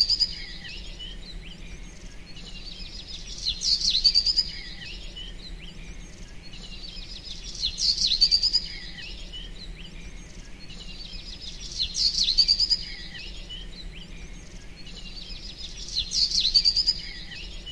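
Short bursts of high bird chirps and quick trills, each burst the same shape and repeating about every four seconds, over a faint steady low hum.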